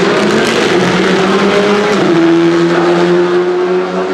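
Rally car engine at high revs. Its pitch climbs for about two seconds, drops suddenly as it shifts up a gear, then holds fairly steady.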